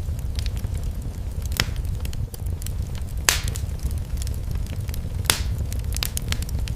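Wood fire crackling in a fireplace: a steady low rush of the flames under scattered small crackles, with two louder pops about three and five seconds in.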